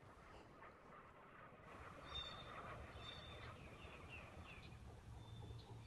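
Faint outdoor ambience: small birds chirping in short, repeated high calls and little falling notes, over a low steady hum, both beginning about two seconds in.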